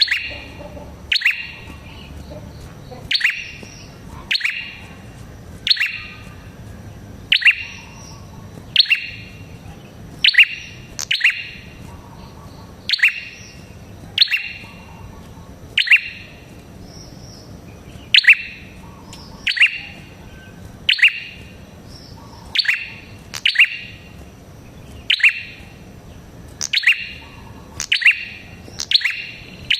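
Red-headed prenjak calling: a loud, sharp chirp that sweeps downward, repeated about once every second and a half, sometimes in quick pairs.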